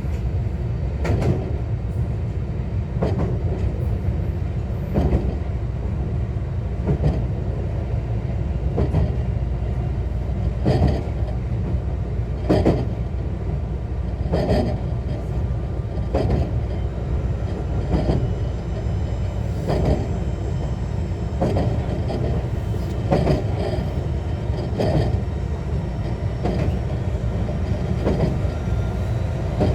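Running sound of a JR West 125 series electric railcar, a steady low rumble with the wheels knocking over rail joints about every two seconds at an even speed.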